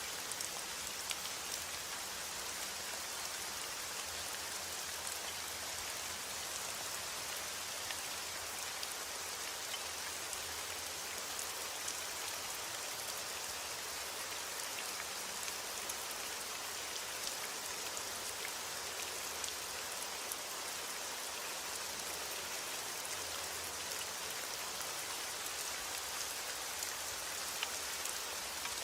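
Steady heavy rain falling, a dense even hiss with many small drop ticks.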